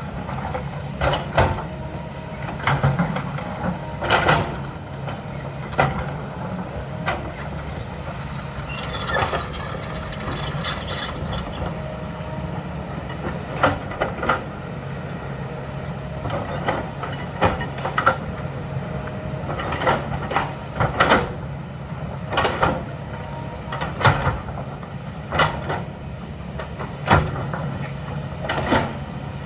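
Diesel engine of a heavy earthmoving machine running steadily under work, with sharp knocks every second or two and a brief high squeal about eight seconds in.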